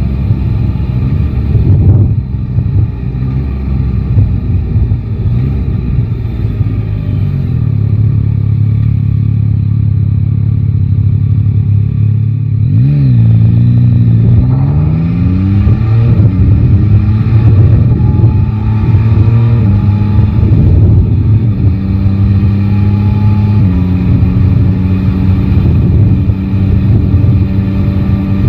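Yamaha Tracer 9 GT's 890 cc inline-three engine running under way. About halfway through, its note dips and then climbs in rising sweeps as the bike accelerates. Later it settles into a steady cruising tone.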